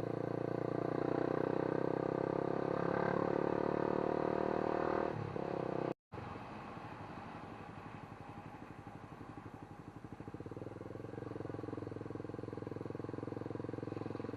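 A vehicle engine running steadily, louder over the first five seconds and again from about ten seconds in, with a moment of complete silence about six seconds in.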